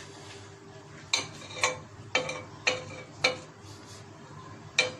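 Metal cookware knocking: six sharp clicks, each with a short metallic ring, about two a second, with a pause before the last one.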